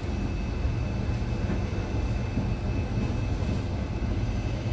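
Interior ride noise of an IZBAN electric commuter train car: a steady low rumble with a faint steady high tone over it.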